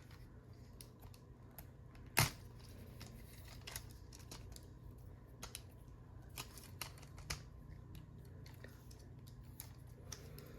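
Hard plastic parts and ratchet joints of a Transformers action figure clicking as it is folded and transformed by hand: scattered sharp clicks, with one louder snap about two seconds in.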